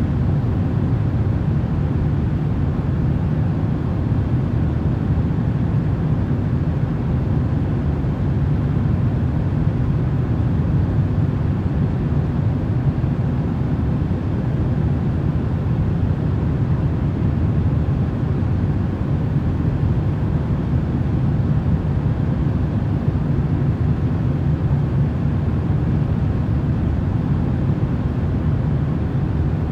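Steady, unchanging noise for sleep, deep and rumbling, with most of its weight in the bass and no tones, beats or separate events.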